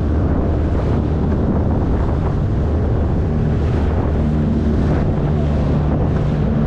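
A 9.8 HP outboard motor running steadily under way, a low engine drone under wind buffeting the microphone and the rush of water along the hull.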